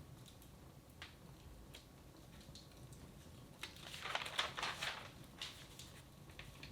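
Wood fire in a fireplace crackling faintly, with scattered sharp pops and a louder flurry of crackling about four seconds in.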